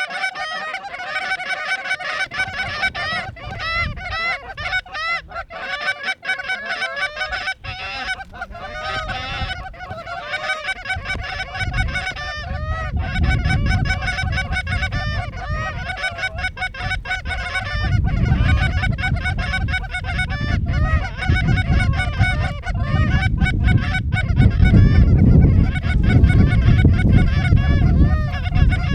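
A flock of geese honking continuously, many overlapping calls, with wind buffeting the microphone, growing heavier from about twelve seconds in.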